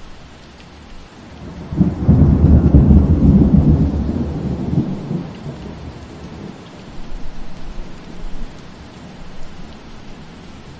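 Steady rain with a deep roll of thunder that breaks in about two seconds in, is loudest for a couple of seconds, then rumbles away. Fainter low rumbles follow near the end.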